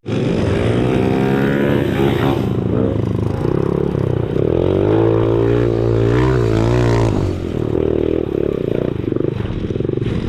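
Small single-cylinder four-stroke pit bike engine being ridden, its note rising and falling as the throttle is worked, then easing off to a lower steady run about seven seconds in.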